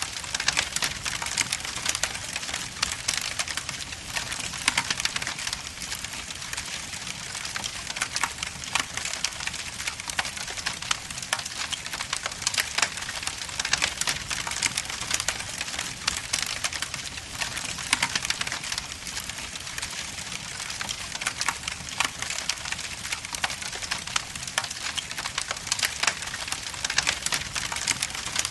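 Logs burning in a fireplace, crackling and popping irregularly and densely over a steady hiss.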